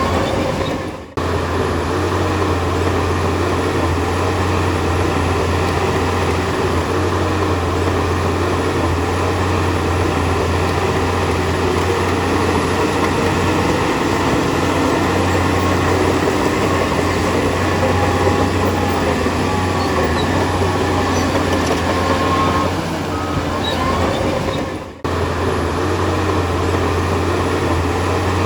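Crawler bulldozer's diesel engine running steadily under load, with the rattle and clank of its steel tracks. The sound briefly drops out twice, about a second in and near the end.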